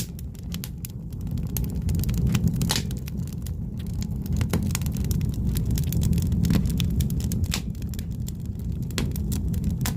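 Firewood burning in a wood stove, crackling with frequent irregular pops and snaps over a steady low rumble of the fire.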